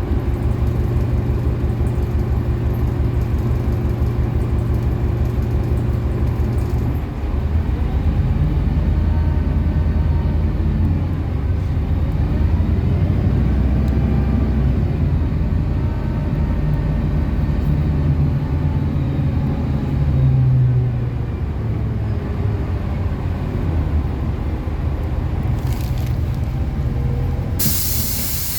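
City bus diesel engine heard from inside the bus: a steady pulsing idle, then the bus pulls away about seven seconds in, with the engine note rising and falling as it gathers speed. Near the end comes a loud, short burst of compressed-air hiss from the bus's pneumatics as it comes to the stop.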